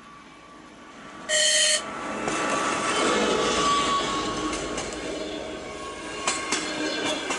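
TEP70 passenger diesel locomotive gives one short horn blast as it approaches, then passes with a loud rumble of engine and wheels, followed by the coaches' wheels clicking over rail joints.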